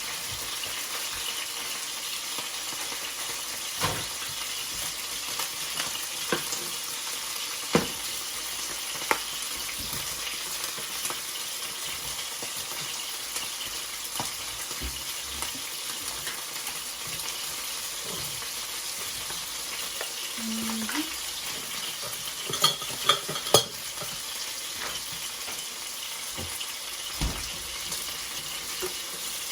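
Butter sizzling steadily in a frying pan as the base of a mushroom sauce, with a spoon now and then clicking against the pan, and three sharp knocks close together a little past the middle.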